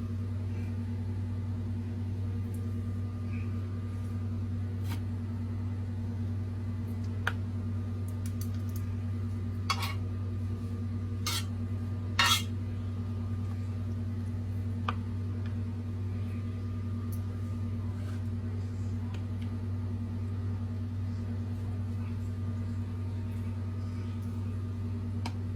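A steady low hum, with a few scattered clinks of a utensil against a dish while food is stirred and coated. The loudest is a quick double clink about halfway through.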